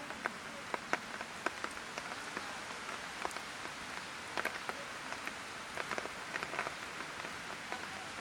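Light rain falling: a steady patter with irregular sharp drips of drops landing close by.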